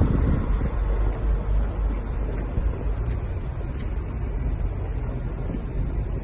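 Logging truck driving by, its engine a steady low rumble that fades slightly.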